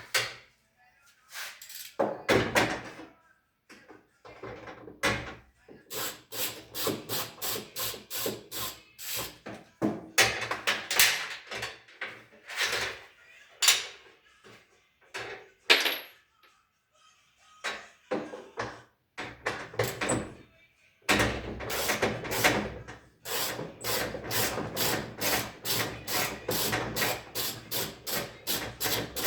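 Hand tool working on a front-loading washing machine's drum assembly in quick repeated strokes, about three to four a second, in runs broken by short pauses.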